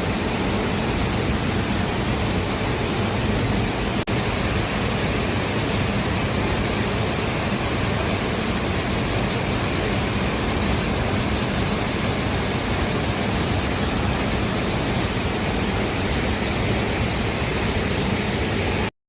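Waterfall pouring down, a steady, even rush of water noise. It dips briefly about four seconds in and cuts off suddenly at the very end.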